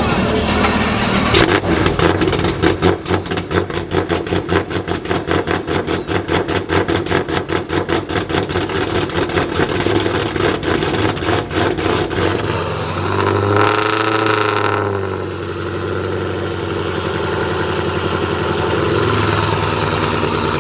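Supercharged Dodge Challenger Hellcat Hemi V8, built up with a Mammoth blower and a forged motor, starting about a second in. It settles into an uneven, pulsing idle, is revved up and back down once about two-thirds through, then idles more steadily.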